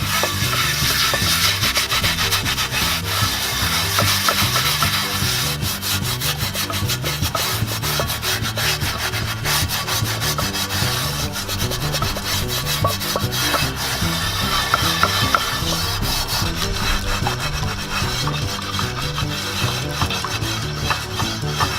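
Rapid, continuous abrasive scrubbing of a cast iron pan, many quick strokes back and forth, as the pan is scoured before seasoning.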